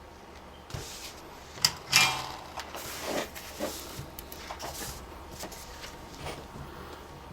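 Small clicks, taps and rustles of hand work while a red wire is soldered onto a laptop power jack's lead held in helping hands, with two sharp clicks close together about one and a half to two seconds in.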